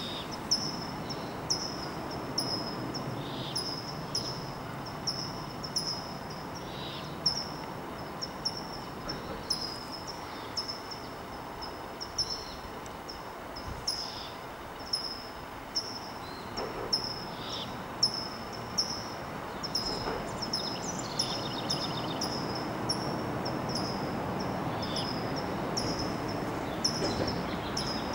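A small bird chirping over and over, short high notes at about one and a half a second, against a steady background hum of distant noise.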